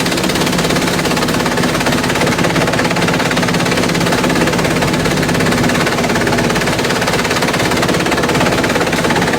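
Industrial bamboo shredder running loud and steady: a continuous rapid clatter of bamboo being chopped and cracked over the machine's steady hum.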